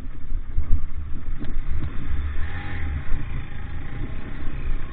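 A motor vehicle running, with a heavy, uneven low rumble.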